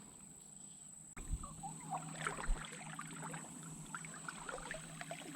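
Faint rustling and crackling of footsteps through brush and leaves, starting about a second in as irregular small clicks, over a steady high-pitched insect drone.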